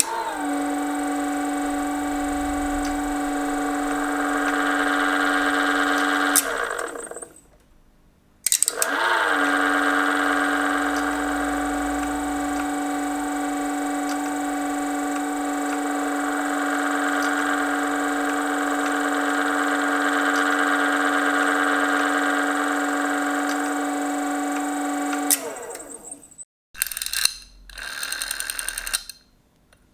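Telephone exchange tone from a Strowger electromechanical exchange setup: two long, steady buzzing tones, each sliding down in pitch as it starts and stops, with a short gap between them. A few sharp clicks of the switch gear follow near the end.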